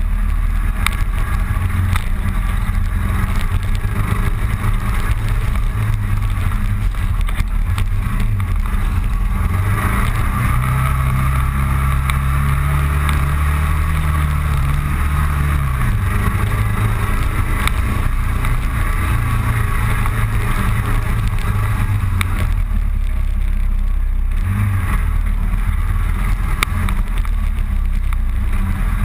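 Motorcycle engine running under way on a road ride, with steady road and wind noise. About ten seconds in the engine note rises and holds for several seconds, then drops back as it eases off.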